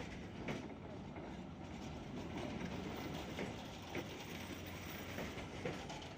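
Faint steady rumble of a train running, with scattered short clicks and knocks.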